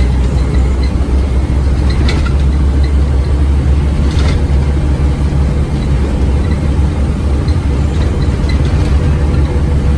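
Scania OmniCity bus's diesel engine running steadily, heard as a deep, even drone with light rattles and clicks from the bodywork.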